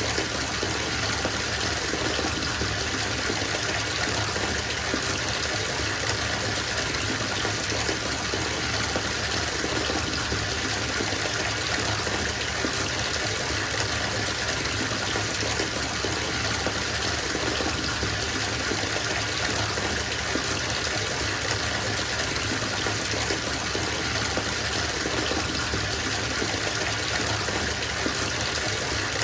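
Bathtub filling from the tap: a steady gush of running water splashing into the tub, unchanging throughout.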